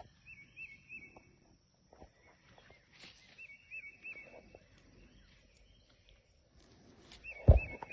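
Outdoor insect chorus: a high, even chirping at about four pulses a second, with a bird's short wavering phrase three times. Soft scattered clicks and one loud thump near the end.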